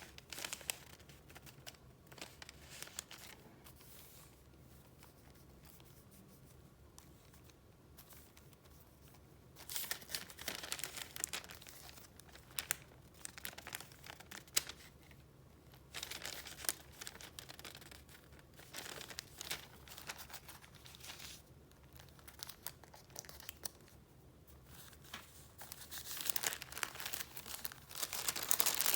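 Paper being handled and leafed through, rustling and crinkling in bursts with quiet pauses between, louder again near the end.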